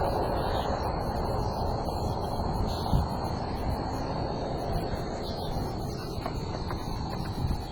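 Wind buffeting the microphone outdoors, a steady rumbling hiss that slowly eases, with a faint steady high-pitched tone behind it.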